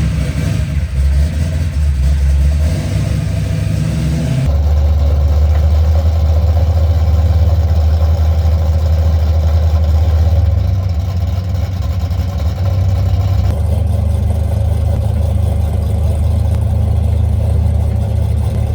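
Car engine running steadily at a low idle, its deep hum changing abruptly twice.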